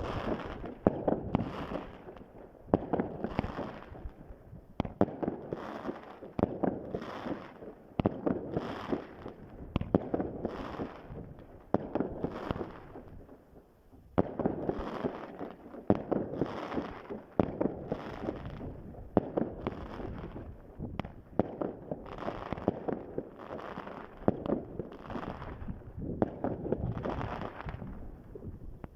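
Fireworks going off in a long series of bangs, each trailing a crackle, about one every second or so, with a short lull about halfway through.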